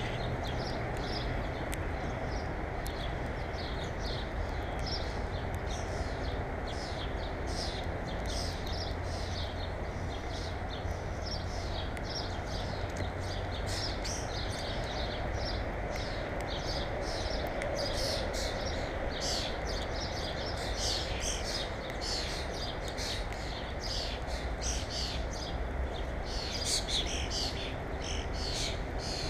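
Small birds chirping rapidly and continuously in short high calls, several a second, over a steady low background rumble.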